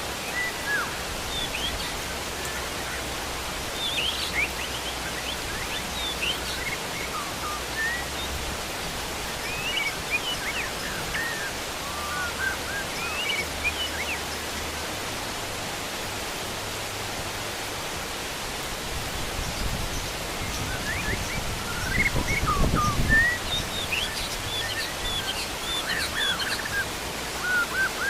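Heavy rain falling steadily, with many short chirps and calls of wild birds throughout. About twenty seconds in, a low rumble rises for a few seconds and is the loudest part.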